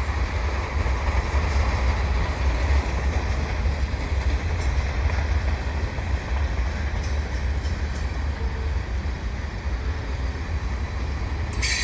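Heavy freight train, mostly hopper cars, rolling slowly past with a steady low rumble. A brief hiss of higher noise comes near the end.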